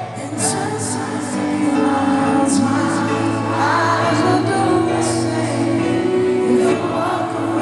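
A live band playing a pop-soul ballad with singing, loud and steady, in a concert recording.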